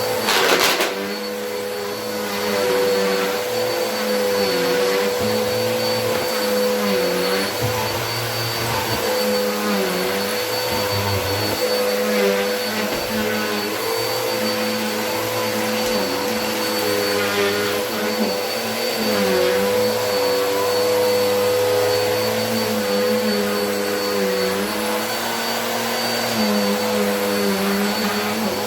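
Vacuum cleaner running with a steady motor whine. Its note dips briefly every few seconds as it is worked over the floor. A short loud rush comes about half a second in.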